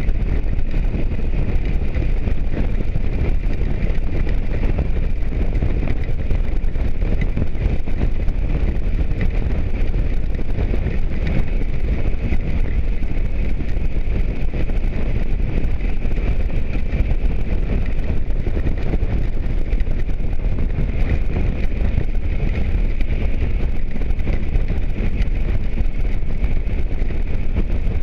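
Motorcycle at steady riding speed: a loud, steady rumble of wind rushing over the microphone, mixed with engine and road noise.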